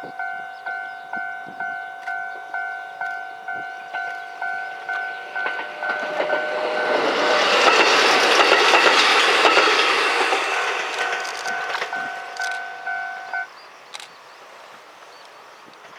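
A level crossing warning bell dings about twice a second while a Kotoden 1100-series electric train runs past; the train's noise swells to a peak in the middle and fades. The bell stops a couple of seconds before the end.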